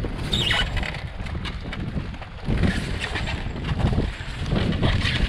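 Muffled rumbling and crackling on a waterlogged action-camera microphone, with wind noise and irregular scrapes and knocks from handling scrap.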